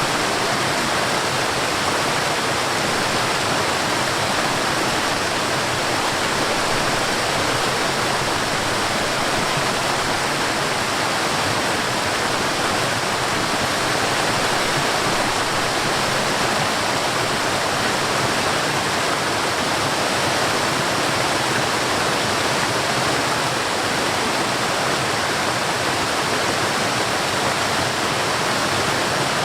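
Forest waterfall: water falling and rushing steadily in an even, unbroken noise.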